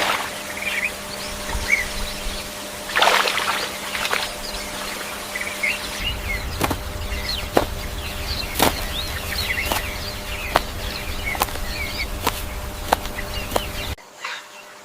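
Birds chirping in short, repeated calls, with scattered sharp clicks and a brief burst of noise about three seconds in. The background changes abruptly twice, about six seconds in and near the end.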